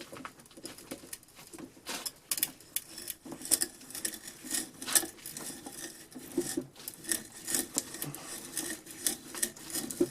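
Diamond sharpening rod rubbed in short, repeated strokes across the cutting edge of a vintage auger bit: a quick, uneven series of metal-on-metal scrapes.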